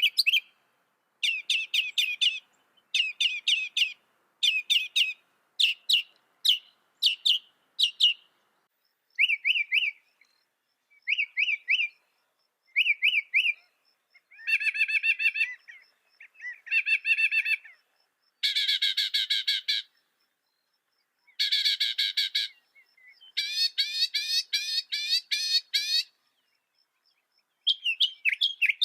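Mockingbird singing, repeating each phrase two or more times before switching to a new one: first quick chirped notes, then short trilled phrases, then longer buzzy, rattling phrases near the end, with short silences between phrases.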